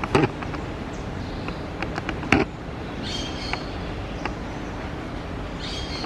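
Birds giving short high chirping calls twice, about halfway through and again near the end, over a steady low rumble. Two sharp knocks, the loudest sounds, come just after the start and about two seconds in.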